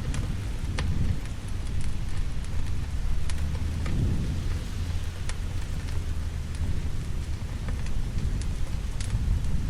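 Steady rain with a low rumble of thunder that swells about four seconds in, over a crackling fire whose scattered sharp pops come every second or so.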